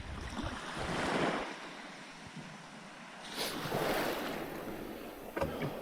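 Small waves washing in and breaking in two swells, with wind noise on the microphone and a short knock near the end.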